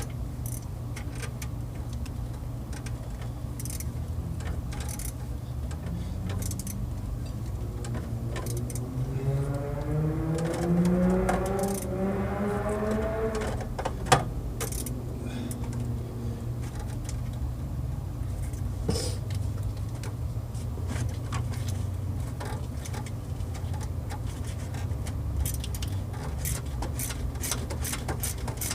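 Ratchet and socket clicking and tools knocking on metal while working the alternator bolts, with a steady low hum underneath. From about six seconds in, a vehicle engine rises in pitch, ending in a single sharp knock about fourteen seconds in.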